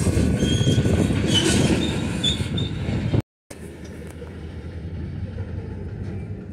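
Freight train tank cars rolling past close by: a heavy rumble of wheels on rail with several short high wheel squeals. The sound drops out briefly about halfway, then continues quieter and farther off.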